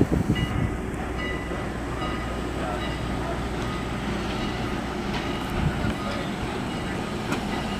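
Train rolling past, a steady rumble of cars on the rails, with a sharp knock right at the start.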